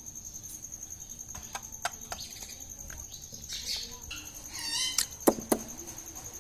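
Pet ringneck parrot giving two short chattering calls about halfway through, followed by a few sharp clicks, over a steady high-pitched whine.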